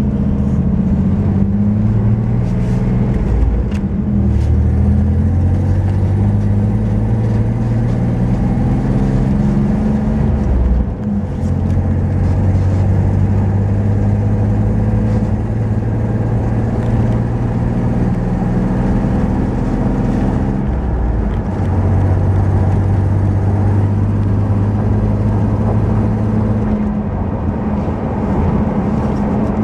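Chevy 4x4 pickup truck's engine running under way, a steady loud drone whose pitch steps up or down several times. The truck has a stutter under load, but on this level stretch it runs without much trouble.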